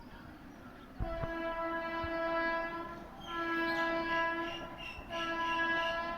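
Horn of a WAP-7 electric locomotive sounding three long, steady blasts as the train runs through the station without stopping. The first blast starts about a second in.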